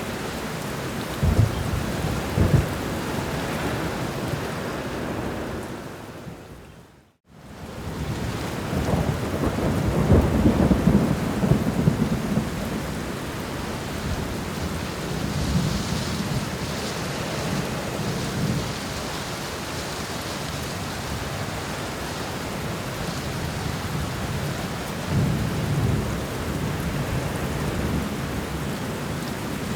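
Steady rain with several low rumbles of thunder, the longest about ten seconds in. About seven seconds in, the sound fades briefly to silence and then fades back up, like a loop seam.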